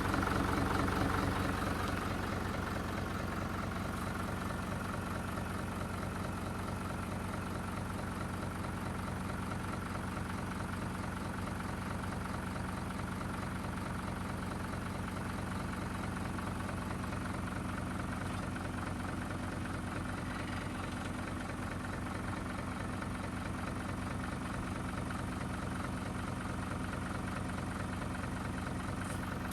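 Kubota M-120 tractor's diesel engine idling steadily, a little louder for the first couple of seconds before settling to an even idle.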